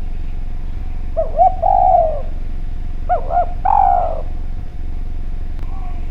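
Spotted dove (Javanese derkuku) cooing twice. Each call is two quick, looping notes followed by a longer drawn-out coo, over a steady low hum.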